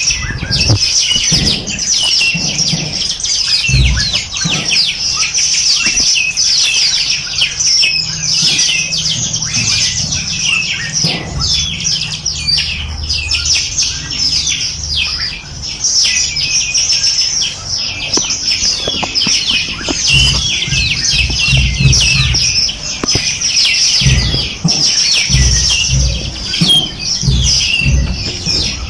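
A dense chorus of small birds chirping and trilling together, fast high notes overlapping without a break. Scattered low thumps sound underneath, more often in the second half.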